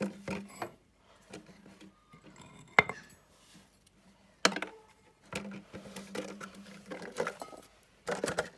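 Small metal engine parts and hand tools clinking and clattering as they are picked up and put down, with two sharper knocks about three and four and a half seconds in and a busier run of clinks near the end.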